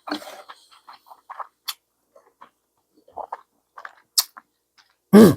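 A person eating instant ramen: scattered soft slurping and chewing noises with a few sharp clicks. Near the end comes a short, loud vocal sound.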